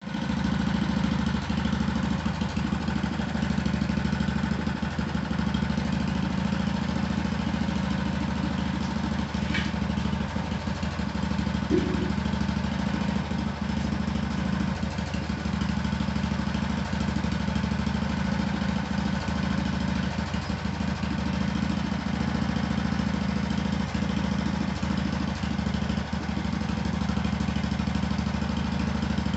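The 8 hp Briggs and Stratton single-cylinder engine of a 1974 Sears ST/16 garden tractor running steadily at an even low speed, with a single short knock about twelve seconds in.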